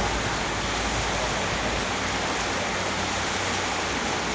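Heavy rain pouring down on a house yard, a steady even hiss. A low rumble underneath fades away within the first two seconds.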